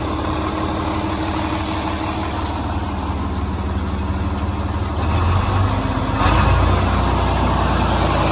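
John Deere 4230's six-cylinder diesel running and driving a New Holland 355 grinder-mixer through the PTO. About five seconds in, the sound grows louder and deeper as the hammermill is put back in gear and the engine takes the load.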